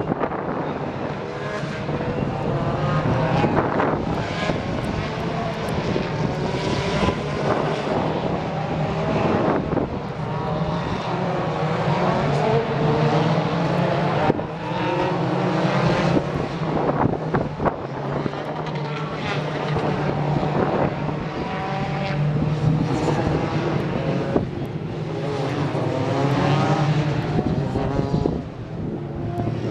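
Racing cars going past on the circuit one after another, their engine notes rising and falling through the gears as each one passes.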